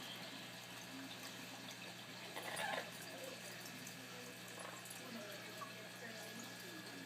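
Aquarium filter running: a faint, steady trickle of water over a low hum, with one brief faint sound a little under three seconds in.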